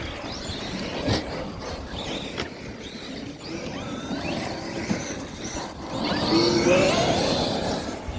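Electric radio-controlled car driving, its brushless motor whine rising in pitch as it speeds up about six seconds in, with tyre noise and a few sharp knocks.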